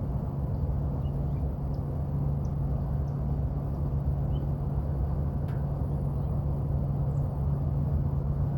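Air-conditioning condenser unit running, a steady low hum over an even rush of air.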